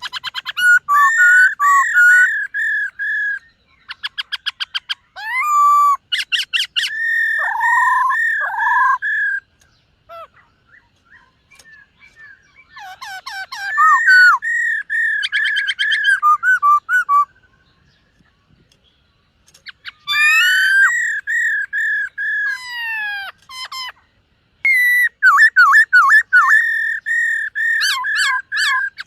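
Black-throated laughingthrush singing loudly in rich whistled phrases of repeated notes and quick trills, in four bouts with short pauses between them.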